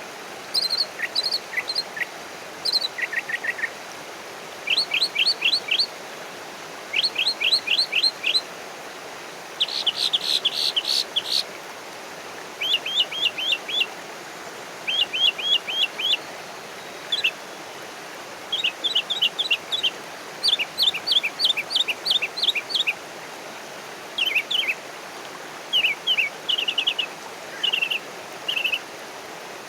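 Small songbirds chirping in short rapid series of high notes, a new phrase every second or two, over a steady background hiss.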